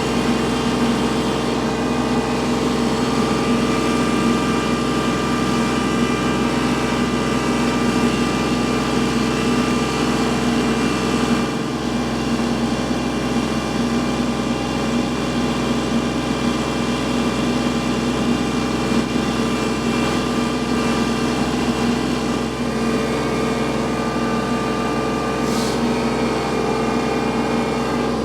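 Kubota L3301 tractor's three-cylinder diesel engine running steadily under load as it pushes snow, holding an even pitch without revving.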